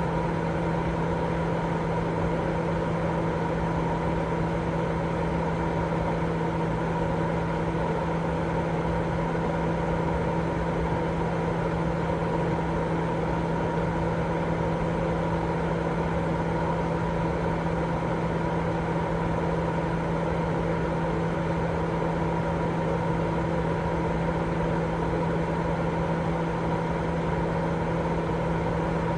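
Continuous white-noise sleep sound: a steady, unchanging rushing noise with a low drone and hum under it, fuller in the lows and mids than in the highs.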